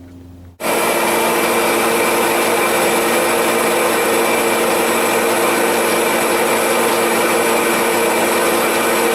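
Portable forced-air (torpedo) heater switched on for a test run after fitting a new spark plug: its motor and fan run with a loud, steady whir carrying several fixed tones. It starts just over half a second in and cuts off abruptly near the end.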